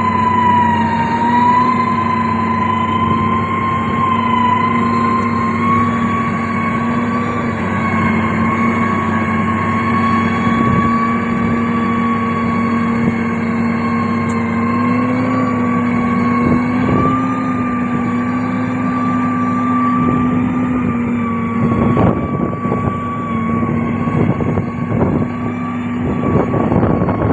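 Heavy road-construction machine engine running steadily under load, with a steady whine above it. Near the end there are several short knocks and clanks.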